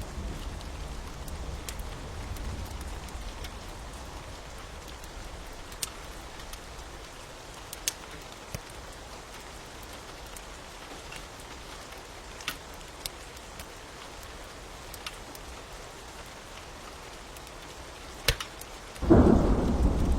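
Steady rain with scattered sharp crackles and pops from a fire. A low rumble fades over the first few seconds, and a loud clap of thunder breaks in about a second before the end.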